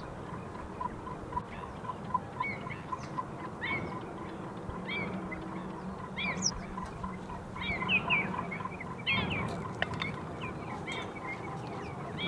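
Birds chirping, many short rising-and-falling calls scattered throughout, with a steady ticking about four times a second underneath.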